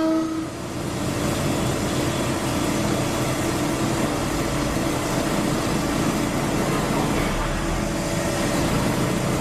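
A train horn blast cuts off about half a second in, then the steady running noise of a train carries on, with a low rumble deepening briefly near the end.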